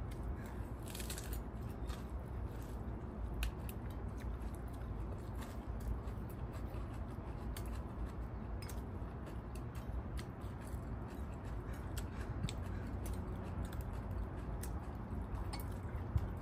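People chewing and crunching beef salad, heard as many scattered faint crisp clicks over a steady low background rumble.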